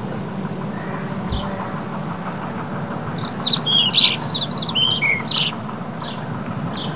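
Wild birds chirping: a few single high chirps, then a quick run of twittering, falling chirps a few seconds in, over steady low background noise.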